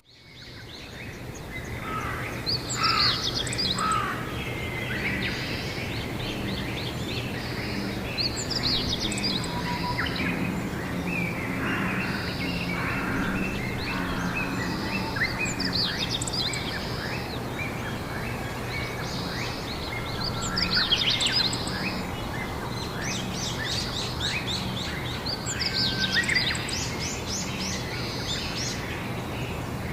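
Several songbirds singing outdoors in spring, repeated chirping and trilled phrases every few seconds, over a steady low hum of background noise. The sound drops out for an instant at the start and fades back in over about two seconds.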